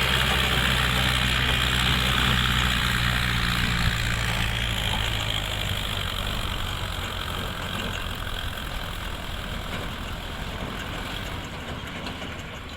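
Diesel tractor engine running steadily, its low hum dropping away about four seconds in, then growing gradually fainter.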